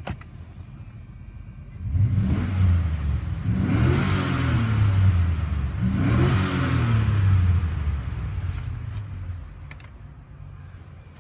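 Chevrolet Avalanche 1500's 5.3-litre V8 engine running, coming in suddenly about two seconds in and revved twice, the pitch rising and falling each time before settling.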